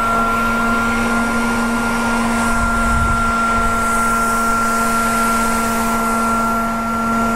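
Bee vacuum's motor running steadily with a constant whine over a rushing hiss as it sucks a honeybee swarm off a branch, with a brief low rumble about three seconds in.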